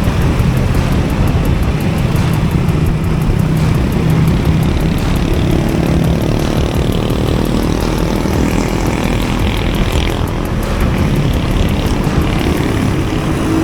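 Honda Beat 110 cc single-cylinder scooter engine running steadily while riding, under constant road and wind noise.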